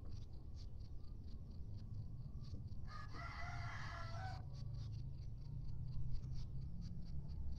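A kampung rooster crowing once, about three seconds in, the call lasting about a second and a half, over a steady low hum.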